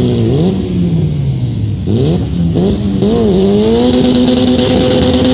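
Car engine revved in quick throttle blips, its pitch swinging up and down, then about four seconds in it climbs and holds at steady high revs, as when a car is held at high revs before launching.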